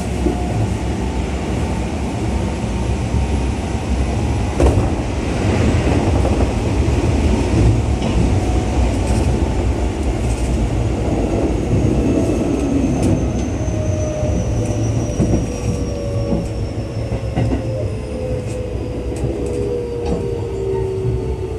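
Keio 8000 series electric train running: a steady rumble of wheels on rail with scattered clicks from the rail joints. From about halfway through, a whine from the traction motors falls steadily in pitch as the train slows.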